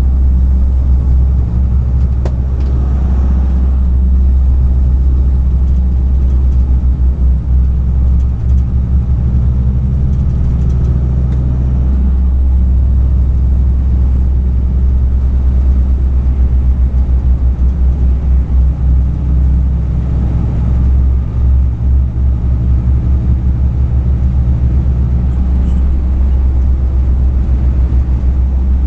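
Truck engine and road rumble heard from inside the cab while driving: a loud, steady low drone whose engine note changes about halfway through and again near the end.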